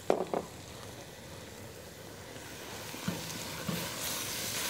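Chopped leeks and green onions sizzling in an enamelled cast-iron pot with a splash of red vinegar just added. Two sharp knocks come right at the start. From about three seconds in, a wooden spoon stirs and taps in the pot and the sizzle grows louder.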